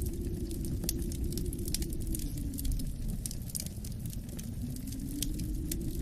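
Wood fire crackling with frequent small, sharp pops over a steady low rumble of wind outside, which dips slightly about halfway through and then swells back.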